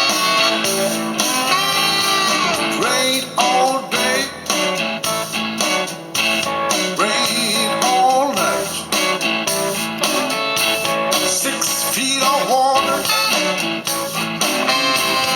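Blues song with guitar and bending lead notes, played over a car stereo: a Pioneer DEH-970 head unit driving morel Tempo 6 front speakers from its built-in amplifier.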